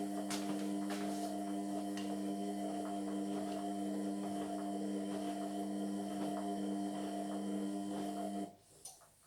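Indesit MyTime washing machine running its Cotton 60 wash with a steady motor hum and light clicks. The hum cuts off suddenly about eight and a half seconds in, and a single click follows.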